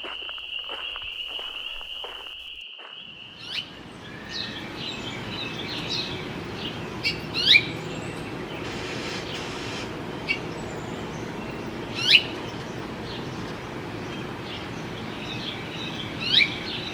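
A chorus of spring peepers, a steady high peeping drone, for about the first three seconds. It then gives way to a steady rushing background with a few loud, sharp bird chirps that sweep downward.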